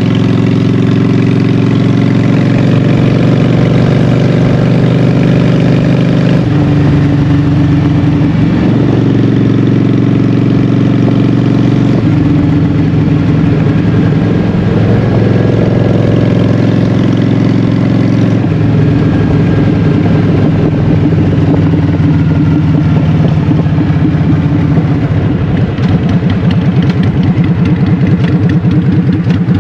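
Honda Shadow 750's V-twin engine running through Vance & Hines Short Shots exhaust while riding. The engine note changes pitch in steps a few times. Near the end the beat of the individual exhaust pulses comes through.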